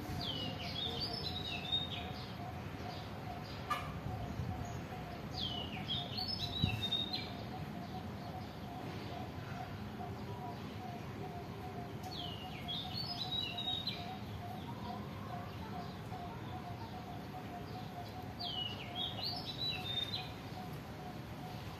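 A bird singing a short, quick phrase of high notes four times, about every six seconds, over a steady pulsing tone underneath.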